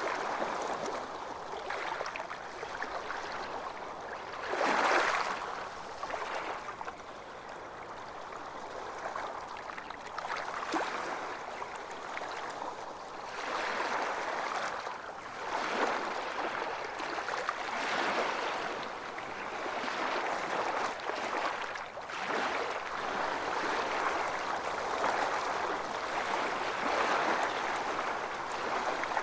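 Ocean waves washing onto a beach, a continuous surf wash that swells and recedes every few seconds, loudest about five seconds in.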